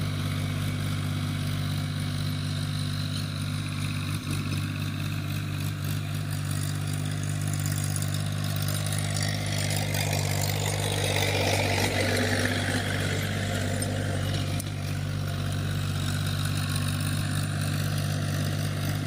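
Tractor engine running steadily while ploughing a field, growing louder for a few seconds about halfway through.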